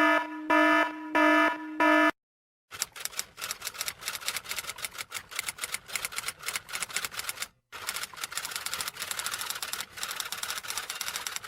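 Four short electronic beeps in quick succession, then, after a brief pause, a long run of rapid, irregular clicking like fast typing on keys.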